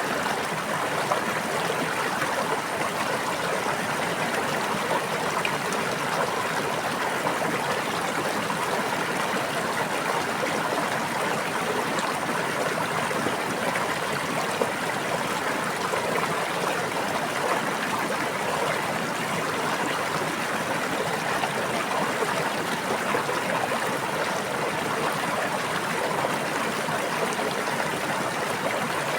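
Water of a stream running steadily, an even, unbroken rush.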